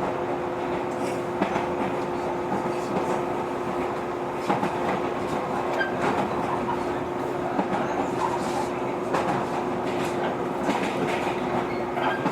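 Running sound of a JR 115 series electric train heard from inside the car: a steady hum under the rumble of the wheels, with irregular clicks and clatter from the rails.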